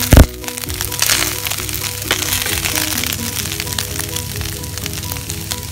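Background music with a stepping melody plays over chicken fried rice sizzling in a non-stick pan as a spatula stirs and scrapes it. A single loud knock sounds right at the start.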